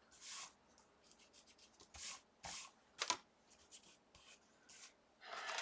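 An adhesive pickup square rubbed over white cardstock to lift off stray glue: a handful of short, soft rubbing strokes, with one light click a little after three seconds in.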